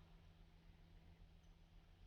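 Near silence: faint steady electrical hum and room tone.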